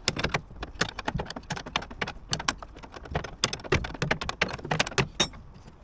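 Irregular sharp metallic clicks and clinks of hand tools, several a second, while the cab's bolts are being undone.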